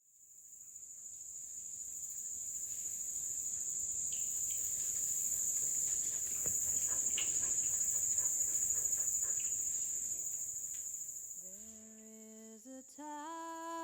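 Steady, high-pitched chorus of night insects, fading in at the start, with a few short bird chirps in the middle. It fades out near the end as a person's voice starts humming a tune.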